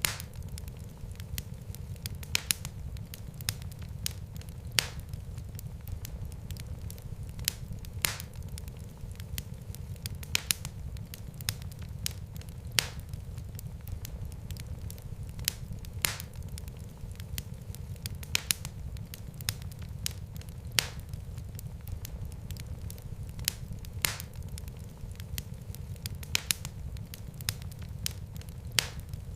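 Fire burning in a fireplace: a steady low rumble of flames with sharp crackles and pops at irregular moments, roughly one every second or two.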